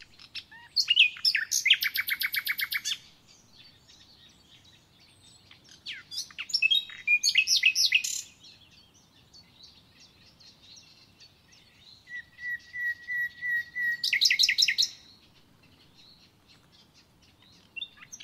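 A songbird singing three separate phrases of rapid trilled notes, each lasting two to three seconds, about five seconds apart.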